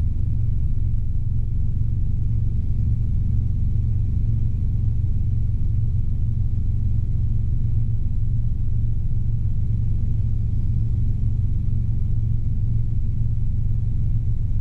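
Robinson R22 helicopter in level cruise: the piston engine and rotors make a steady low drone that holds even throughout.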